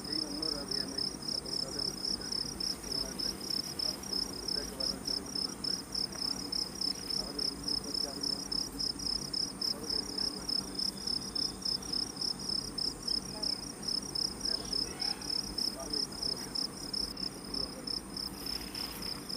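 Forest insects chirping in a steady, high-pitched chorus of rapid, even pulses.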